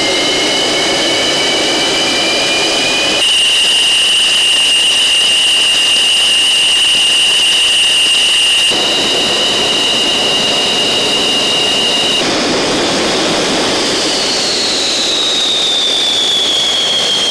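MiG-29 fighter's twin RD-33 turbofan jet engines running, a loud high-pitched whine over a steady rush. The sound changes abruptly three times as shots cut, and near the end the whine glides down in pitch.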